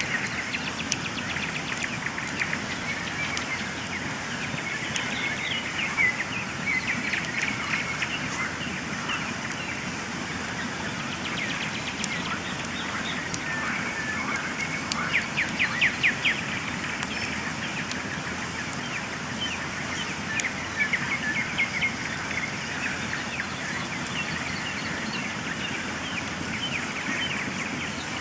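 Dawn chorus of many songbirds chirping and trilling at once over a steady background hiss, with occasional sharp clicks; a fast trill stands out about halfway through.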